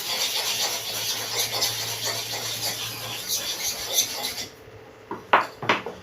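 Metal hair-clipper blade rubbed on a sharpening stone: a steady gritty scraping that stops about four and a half seconds in, followed near the end by a few sharp knocks.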